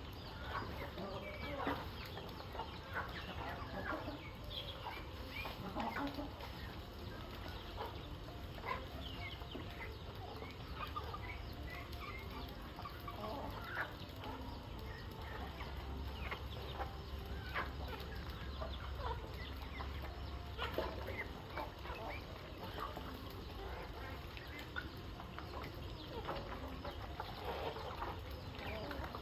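A flock of domestic chickens clucking, with many short calls overlapping throughout.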